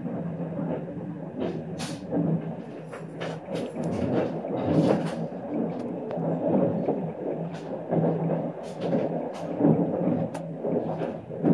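Running noise of a moving 25T passenger coach heard from inside a sleeper compartment: a steady rumble of wheels on rail, with irregular sharp clicks and rattles scattered through it.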